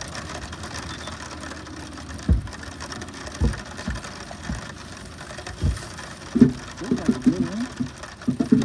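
Steady hiss of rain falling on the boat and water, broken by a few dull knocks against the boat, with short wavering voice-like sounds toward the end.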